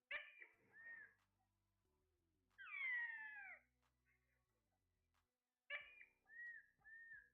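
Pet parrot making meow-like calls: a couple of short calls at the start, one long falling call about three seconds in, then a few short calls near the end.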